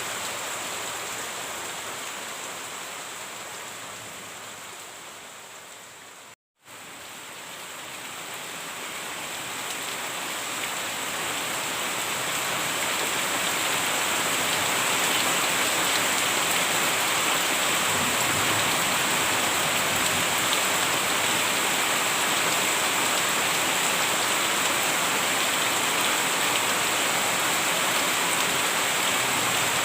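Steady rain falling. It fades down over the first six seconds, cuts out completely for a moment, then swells back up and holds steady.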